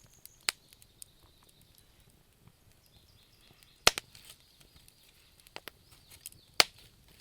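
Wood fire crackling in a fireplace: a faint steady hiss with scattered small pops, and three sharp loud cracks, about half a second in, about four seconds in and near the end.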